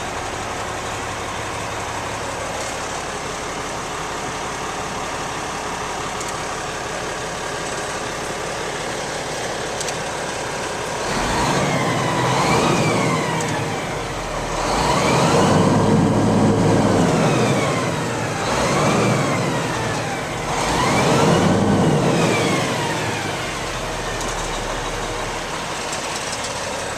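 Cat C-10 diesel engine of a Kenworth T800 mixer truck idling, then revved up and let back down four times in a row before settling back to idle.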